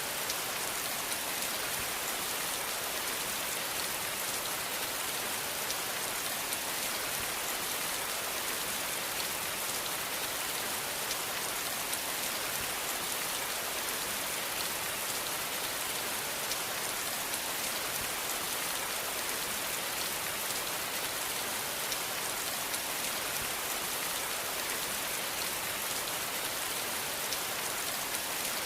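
Steady rain falling, an even hiss with many fine, close-spaced drop ticks and no thunder.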